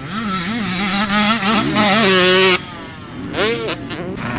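A 450 four-stroke motocross bike's engine revs up and down under throttle. It climbs to a held high rev that cuts off sharply a little past halfway, then gives one short blip.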